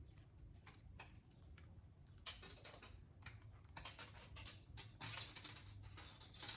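Bare copper wire being unwound by hand from a small spool: a faint, irregular run of light clicks and crinkles that grows busier about two seconds in.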